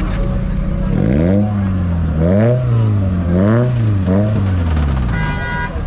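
A car engine revved hard about four times in quick succession, each rev climbing and dropping back. A brief steady high tone near the end.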